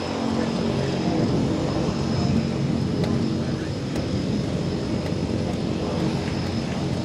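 Light propeller airplane, a Legend Cub, with its piston engine running steadily and the propeller turning.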